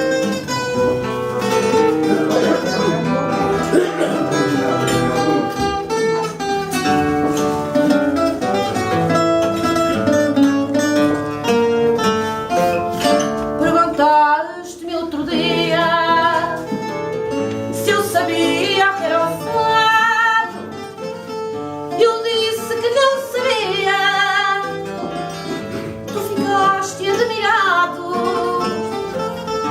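Fado played on a Portuguese guitar (guitarra portuguesa) and a fado viola (classical guitar), with plucked melody over strummed chords; from about halfway a woman's voice sings with a wavering vibrato over the guitars.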